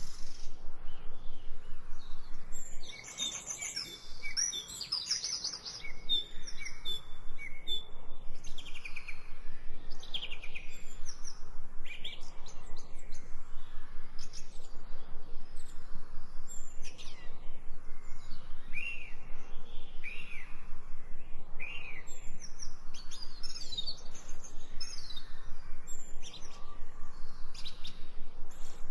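Many small birds chirping and whistling in quick, varied calls, some sweeping down in pitch, over a fast, even pulsing background.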